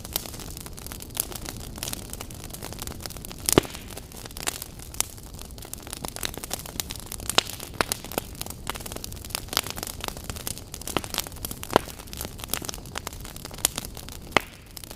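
Wood fire in a fireplace crackling, with irregular sharp pops over a steady hiss and one loud pop about three and a half seconds in.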